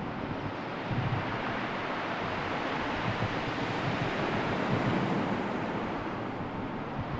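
Sea surf washing steadily, with wind buffeting the microphone in low gusts.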